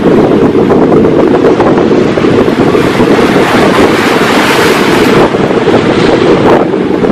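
Sea surf with strong wind buffeting the microphone. The hiss of a breaking wave's wash builds through the middle and falls away shortly before the end.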